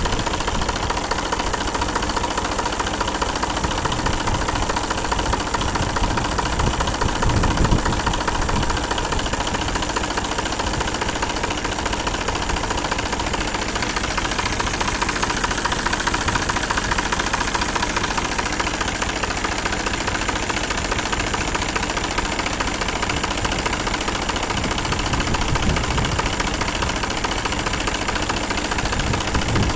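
New Holland 47 hp tractor's diesel engine idling steadily.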